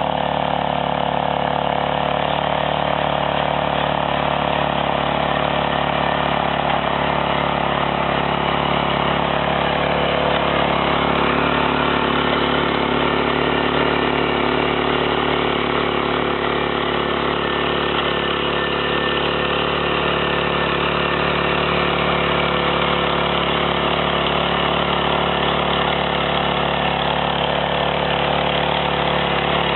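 An engine on a piece of farm machinery running steadily at an even speed, with no change in pitch or load.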